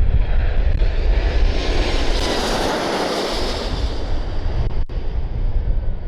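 Jet aircraft passing overhead, its engine noise swelling to a peak a couple of seconds in and then fading. Wind buffets the microphone throughout.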